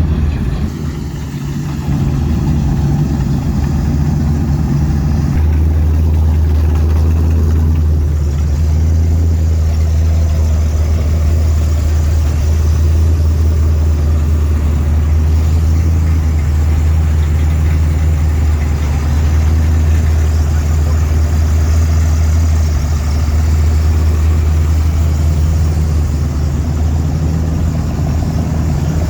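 A car engine idling steadily, loud and low-pitched, with a brief dip in level about a second in.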